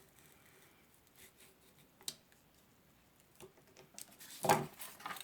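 Knife cutting a styrofoam tray: faint scratching and ticking, a sharp click about two seconds in, and a louder brief scrape of the foam near the end.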